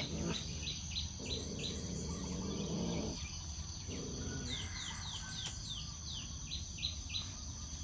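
Outdoor rural ambience: a bird's short falling chirps repeated about twice a second over a steady high-pitched insect drone.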